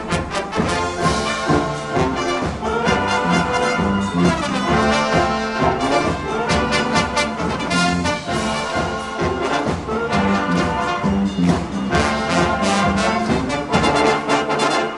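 A high school marching band playing live: trumpets and trombones carrying the tune over a steady beat of marching drums.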